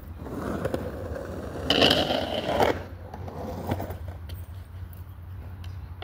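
Skateboard wheels rolling, with a louder scraping stretch about two seconds in that lasts about a second and carries a high squeal, then a sharp knock of the board a little before four seconds.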